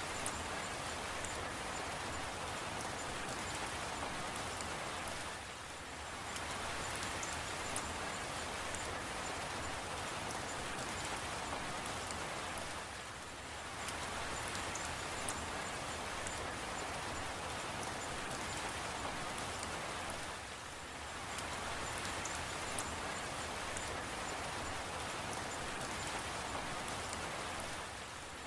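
Steady rain falling: an even hiss with scattered small drop ticks. The level dips briefly about every seven and a half seconds.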